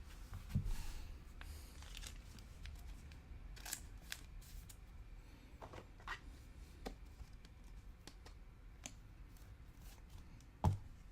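Trading cards and pack wrappers being handled: faint scattered rustles, slides and clicks, with a soft low thump about half a second in and a louder thump near the end.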